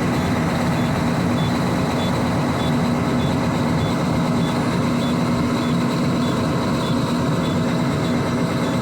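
International truck's diesel engine idling steadily at a raised idle of about 1,000 RPM, warming up after a subzero cold start. A faint high tone, broken by short gaps about twice a second, sounds over it.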